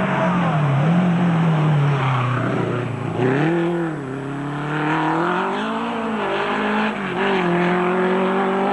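Rally car engine revving hard as the car drives a stage, the pitch climbing and dropping again and again through gear changes and lifts.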